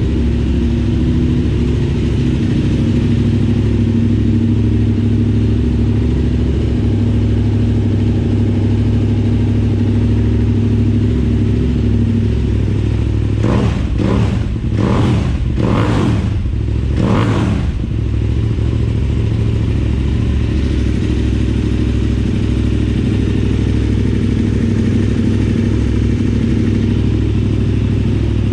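KTM 990 Supermoto's LC8 75° V-twin, breathing through carbon slip-on mufflers with no dB killers, idling steadily. About halfway through comes a quick burst of sharp throttle blips, then it settles back to idle.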